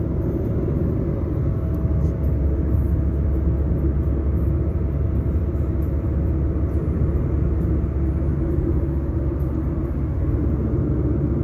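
Steady low rumble of a car driving on the road, engine and road noise mixed with strong sandstorm wind.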